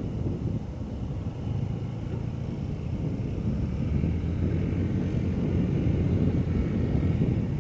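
Diesel locomotive and train running: a steady low rumble that grows a little louder over the last few seconds, with a faint high whine on top.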